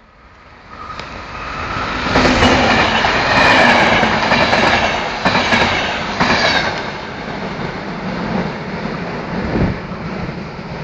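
A train passing close by on the track, its wheels squealing against the rails for several seconds while wheel clicks sound over the rail joints. The noise cuts in suddenly and builds to a loud run, and the squeal stops about two-thirds of the way through.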